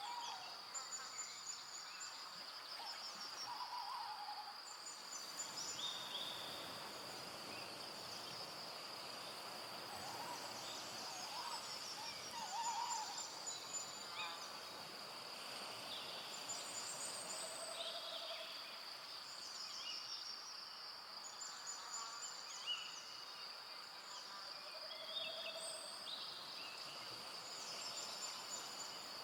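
Forest dusk ambience: a steady, high-pitched insect trill with scattered bird chirps and trills, and two short, low hooting notes.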